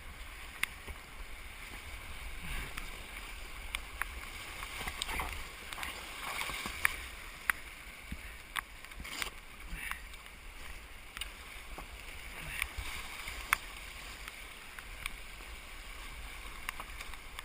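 Rushing creek water and splashing while canoes are paddled down rapids, with scattered sharp knocks.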